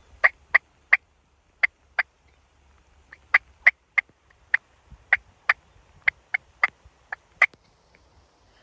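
Wild turkey hen clucking: about seventeen short, sharp single notes, irregularly spaced, with a brief pause about two seconds in.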